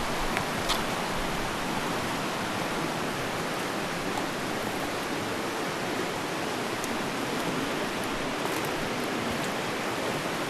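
Fast mountain river rushing over rocks, a steady, even wash of water noise, with a short click near the start.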